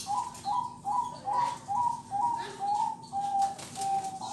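Zebra dove (perkutut) cooing song: a run of about nine short, clipped coo notes at roughly two a second, the last few drawn out longer and steadier.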